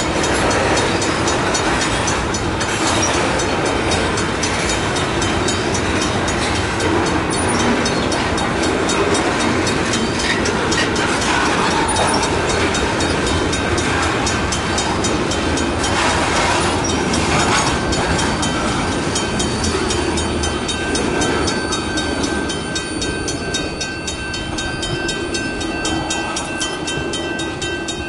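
Freight train of tank cars rolling past: a steady noise of steel wheels on the rails, easing off over the last several seconds as the cars move away.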